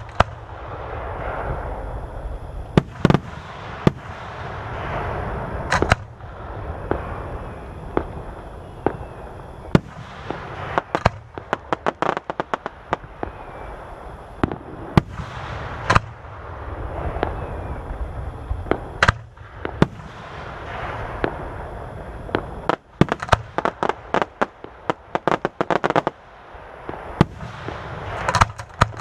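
Aerial fireworks display: sharp shell bursts going off every second or two, with rapid clusters of crackling bangs about a third of the way in and again near the end, over a continuous low rumble.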